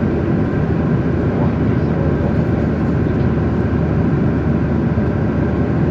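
Airliner passenger-cabin noise in cruise at about 11,000 m: a steady low rushing hum of the jet engines and airflow over the fuselage, even in level throughout.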